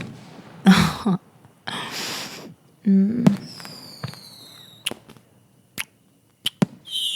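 Fireworks going off: several loud bangs and sharp pops, with whistling shells that fall in pitch about midway and again near the end.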